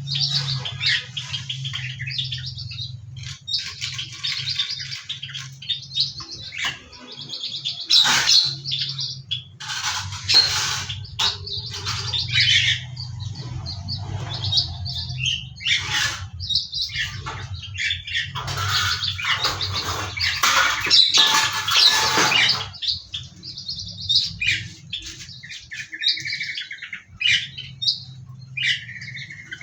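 A mixed flock of caged songbirds in a mini aviary chirping and calling without pause. Louder, harsher squawks and bursts come between about eight and twenty-two seconds in, over a steady low hum.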